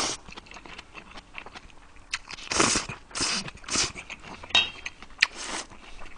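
A man chewing and slurping a mouthful of food close to the microphone: wet mouth clicks, broken by several short, noisy slurps and breaths.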